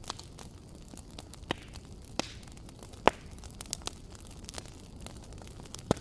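Wood fire crackling in a fireplace: a steady low hiss with scattered sharp pops, the loudest about three seconds in.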